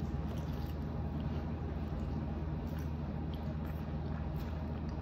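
Close-up chewing of a cheesy birria taco: soft wet mouth clicks and squishes, heard over a steady low hum.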